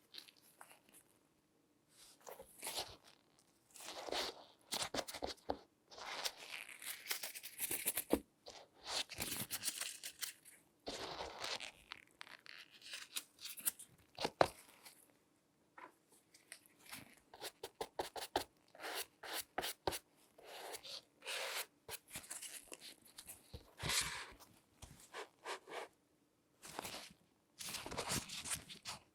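Latex-gloved hands handling and rubbing a shoe, making irregular scraping, crinkling strokes of varying length with short pauses between them.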